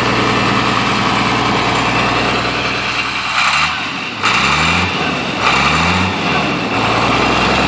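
International 856 tractor engine running steadily, its pitch rising three times in quick succession around the middle as it is revved; it runs pretty.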